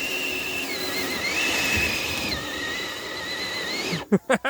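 RC crawler's electric motor and speed controller whining under load as it climbs, a high whine that steps up and down in pitch and wavers with the throttle. Voices break in near the end.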